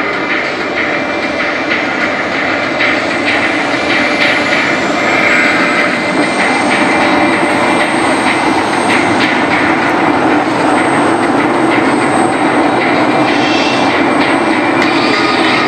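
F-16 Fighting Falcon jet engines running on the ground at start-up, with a high whine that climbs over the first several seconds and then holds steady.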